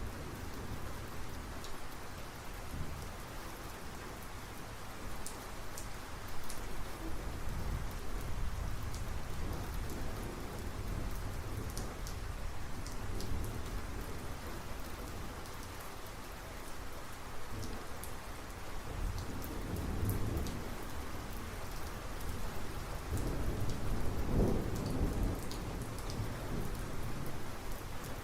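Thunderstorm: steady heavy rain hitting surfaces, with individual drops ticking, under rolling thunder that swells several times. The loudest and longest rumble comes about three-quarters of the way through.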